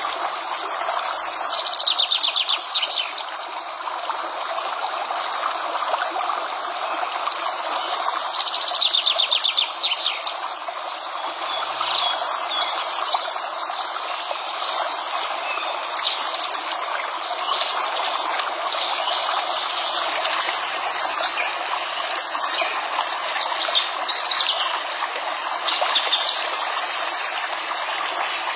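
Birds singing over a steady sound of running water, like a stream. A rapid trill comes twice, about six seconds apart, and many short chirps follow through the rest.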